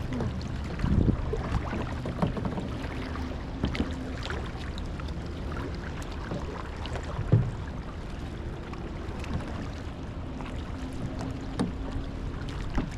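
Kayak paddles dipping and splashing, with a few short knocks and splashes, the loudest about seven seconds in, over a steady low hum.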